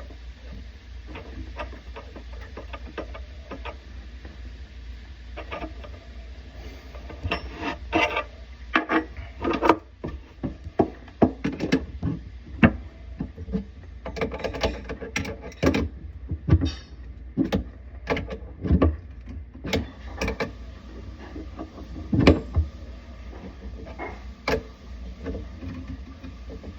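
Irregular clicks, knocks and scrapes of tools and fittings being handled while a faucet is installed. They grow busier about a quarter of the way in, over a steady low hum.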